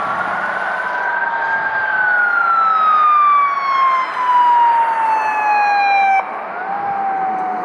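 Emergency vehicle siren sounding a slow wail: its pitch rises for about two seconds, then falls steadily for about four. About six seconds in, the sound changes abruptly and another siren wail is heard starting to rise.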